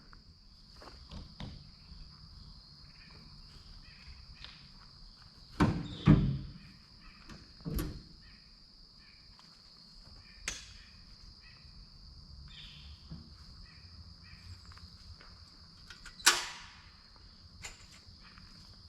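Insects calling in a steady high-pitched drone, with a few sharp knocks and thumps, the loudest about six seconds in and again near sixteen seconds.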